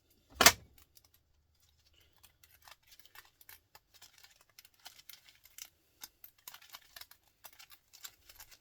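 A single loud knock about half a second in, then a long run of small irregular clicks and snips as copper winding wire is cut and pulled from a small electric motor's stator with hand tools.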